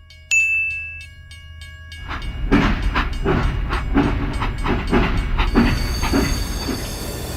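A train running: a short high whistle about a third of a second in, over a steady low rumble. From about two seconds in comes a loud rhythmic clacking, roughly two beats a second.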